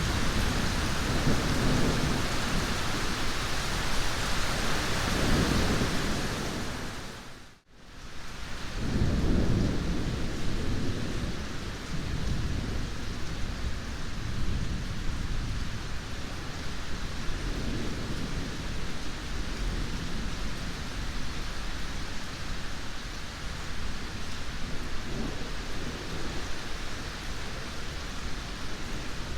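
Thunderstorm: steady heavy rain with rolling thunder rumbling low underneath, strongest in the first few seconds and again just after the midpoint of the first third. About seven and a half seconds in, the whole sound fades out briefly to almost nothing and then swells back.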